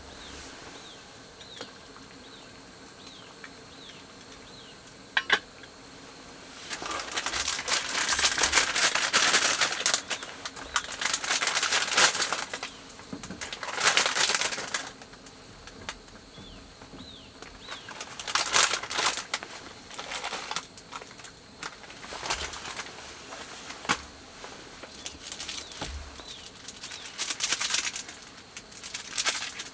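Repeated bursts of rustling, crinkling noise with fine crackles, each lasting a second or two, between quieter stretches.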